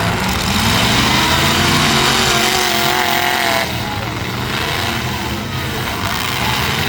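Engines of demolition derby trucks running and revving, loud and continuous, easing off a little about halfway through.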